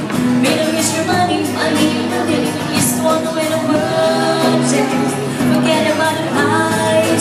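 Live band music with singing, an amplified pop-style song played through a PA system.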